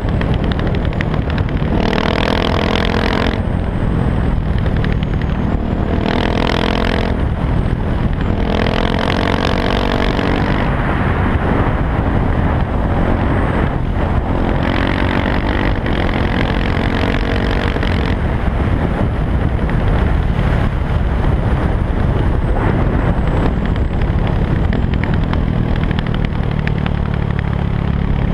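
KTM 690 SMC R single-cylinder engine breathing through an Arrow exhaust with the dB killer removed, running loud under way. It accelerates several times, each time rising in pitch and then breaking off, with a steady run between the pulls.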